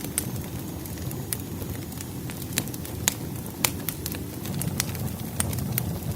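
Firewood burning in a fireplace, crackling with many sharp pops, a few louder snaps near the middle, over the low steady rush of the flames.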